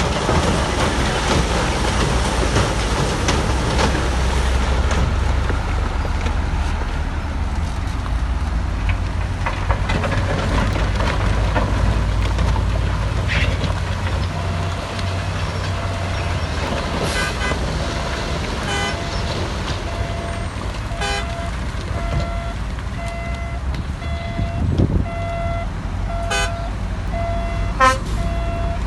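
Heavy diesel earthmoving machinery running steadily. About halfway in, a reversing alarm starts beeping about once a second, with a few sharp knocks and clanks near the end.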